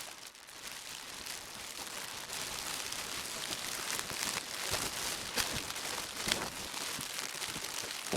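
Plastic being crinkled and handled, a dense crackle with many sharp clicks and a few louder snaps, played back pitched down one octave to bring its ultrasonic content into hearing range.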